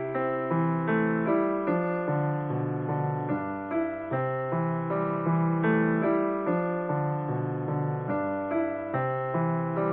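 Background piano music: a gentle melody of notes struck about twice a second over held lower notes.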